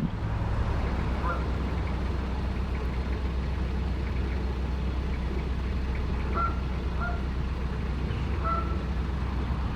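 Narrowboat's diesel engine running steadily at low revs, a constant low drone. A few short high chirps sound over it.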